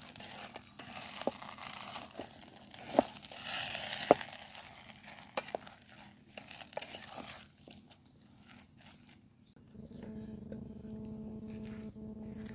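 Hissing, crackling noise with scattered sharp clicks, like food frying and being stirred. About seven seconds in it gives way to insects chirping in a fast, even pulse, and a steady low hum joins them near the end.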